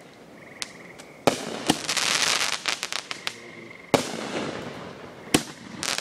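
Fireworks shells bursting: a sharp bang about a second in and another just after it, followed by a long crackling hiss, then two more single bangs about four and five seconds in.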